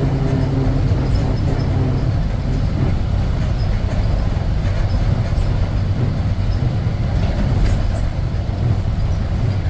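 1948 Ford F5 bus engine running as the bus drives along, a steady low rumble with road noise.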